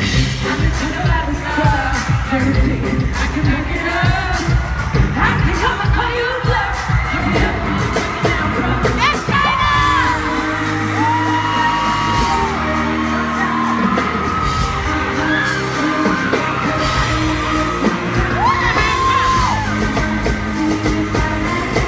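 Live pop concert: a girl group singing over an amplified band with a heavy bass beat, audience yells and whoops mixed in.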